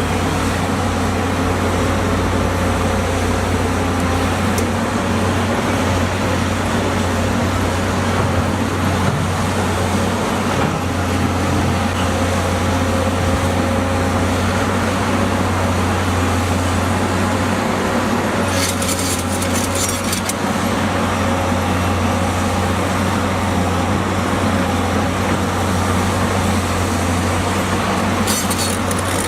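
Diesel engine of heavy earthmoving machinery running steadily with a deep, even hum. There are two short spells of rapid high clicking, about two-thirds of the way through and near the end.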